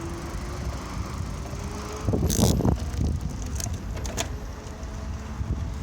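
Bicycle riding along, with steady low road and wind rumble on the microphone. About two seconds in comes a louder, short rattle, followed by a few sharp clicks.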